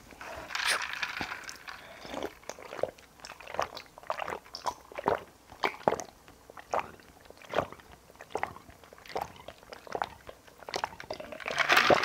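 Close-miked chewing of a mouthful of curry and rice: wet mouth clicks with some crunchy bites, about two chews a second.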